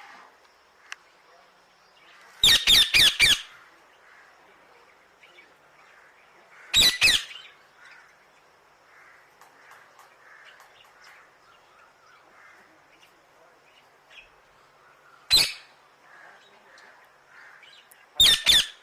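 Parrot squawking loudly in four short bouts: a quick run of about five squawks, then two, a single one later on, and three more near the end.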